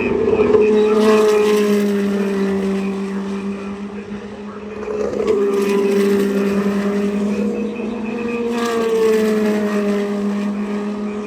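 Indy NXT Dallara IL-15 race cars running past at speed, the engine pitch sliding down as cars go by. The sound swells three times: about a second in, again around five to seven seconds in, and near nine seconds.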